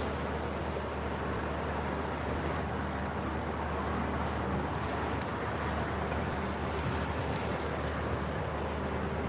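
Steady low rumble and hum of a running vehicle, with no distinct events.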